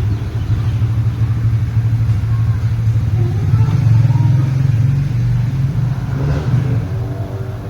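Huebsch washing machine's motor running with a loud, steady low hum that wavers a little and drops away right at the end.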